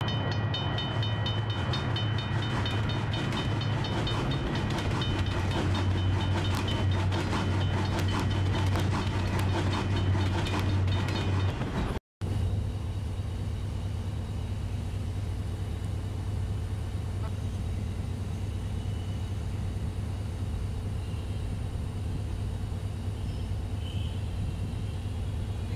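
A train sound with rapid ringing strikes over a heavy low rumble, cut off abruptly about twelve seconds in. After that comes the steady low hum of a passenger train standing still, heard from inside the carriage.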